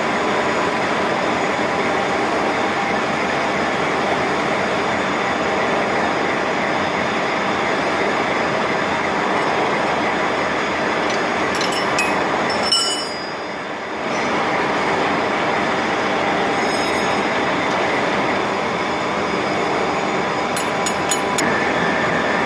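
Horizontal boring and milling machine running: a steady mechanical hum with several whining tones. It drops away briefly about thirteen seconds in, with a few sharp clicks around that moment and again near the end.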